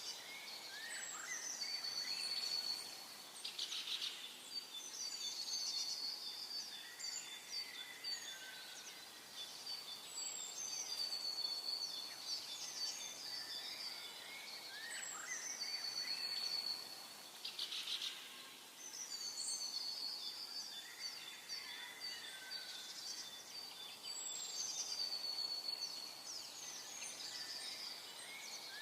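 Songbirds singing, with a high, whistled, downward-sliding phrase repeated about every four to five seconds over a faint, steady background of other high calls.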